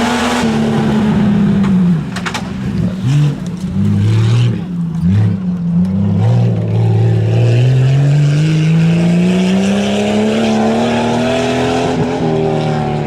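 Tuff truck's engine at high revs under hard throttle. The pitch drops after about a second and a half, a few short throttle blips follow, then one long climb in pitch that eases off near the end.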